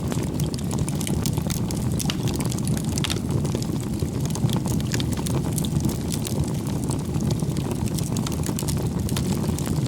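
Wood campfire burning: a steady low rumble of flame with frequent small, sharp, irregular crackles and pops from the burning logs.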